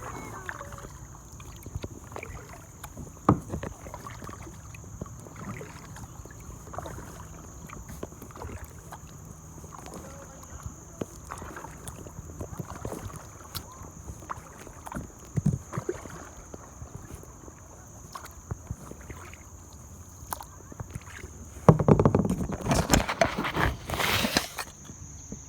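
Kayak on a river: paddle strokes in the water with scattered knocks and splashes, over a steady high insect-like whine. A louder rush of noise comes near the end.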